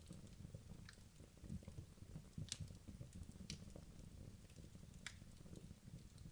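Wood logs burning in a fireplace: a soft low flutter of flame with scattered sharp crackles and pops, three of them louder, about two and a half, three and a half and five seconds in.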